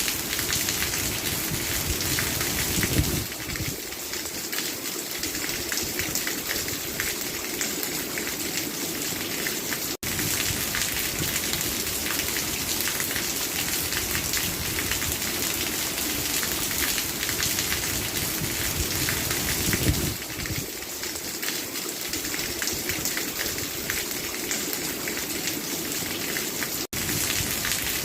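Steady rain falling, a dense, even patter. The sound cuts out for an instant twice, about ten seconds in and near the end.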